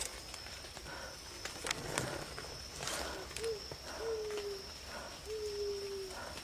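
Three low hooting bird calls, each a short note that falls slightly in pitch, over a steady high insect drone with scattered rustles and clicks.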